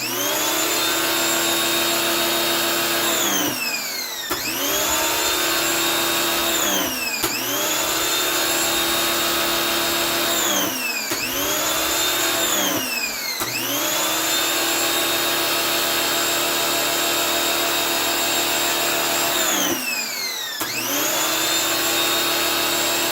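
Simoniz 2000 electric pressure washer's motor and pump starting and stopping about six times, each run spinning up with a rising whine, holding steady for a few seconds, then winding down, as the pump kicks in and cuts out with the trigger. The pump is working again after repair, though with little pressure.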